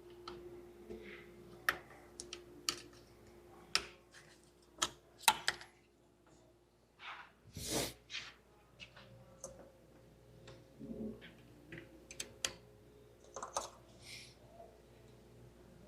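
Scattered light clicks and knocks of hand work on engine parts, with a brief scraping rustle about eight seconds in.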